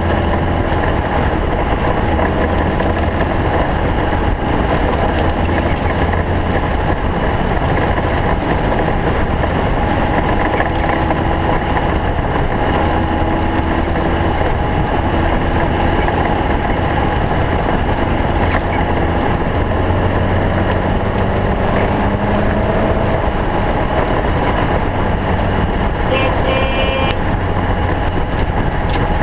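Stock Volkswagen Beetle off-road race car's air-cooled flat-four engine running hard, its pitch drifting up and down over a steady, noisy rumble. A brief higher tone sounds over it near the end.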